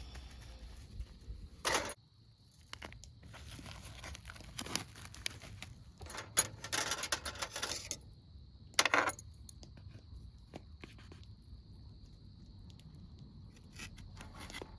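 Camp gear being handled: irregular rustling and scraping with light metallic clinks, with louder bursts about two seconds in, through the middle, and about nine seconds in.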